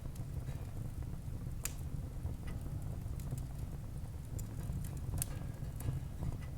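Wood fire burning in a fireplace: a steady low rumble of flames with irregular small crackles, and two sharper pops, one near the start and one about three-quarters through.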